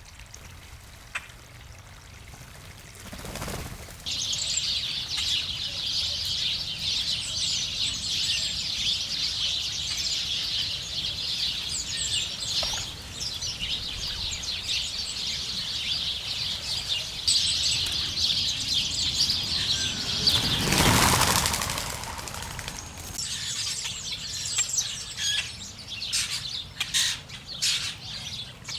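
A flock of small birds chattering together, a thick stream of overlapping high chirps, at a backyard water feature. A loud whir of wings about twenty seconds in, after which the chatter thins to scattered single chirps.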